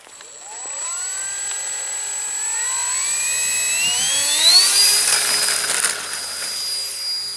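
Electric motor and propeller of a radio-controlled model airplane throttling up for take-off: a whine that rises in pitch for about four seconds, then holds at a steady high pitch as the plane gets airborne.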